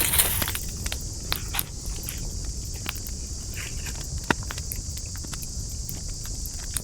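Burning campfire wood crackling with irregular sharp pops. There is a brief dense flare of crackle and hiss right at the start and one loud single pop about four seconds in, all over a steady high-pitched hiss.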